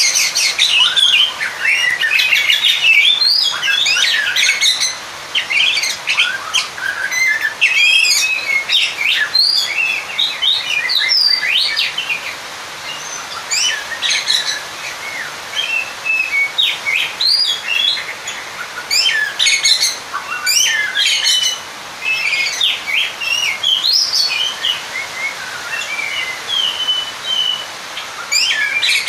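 Oriental magpie-robin (kacer) singing a fast, unbroken, varied song of quick whistles and chirps. It is the agitated challenge song of a bird calling out a rival, used to provoke other males.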